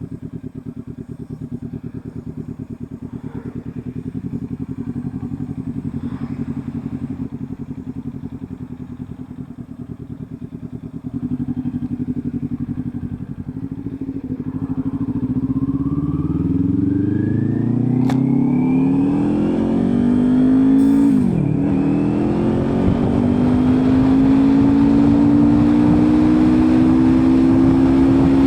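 Kawasaki Ninja 400's parallel-twin engine idling with an even pulse, then pulling away: the pitch climbs steadily. About 21 s in it drops sharply at a gear change, then climbs again and holds at a higher, louder cruise.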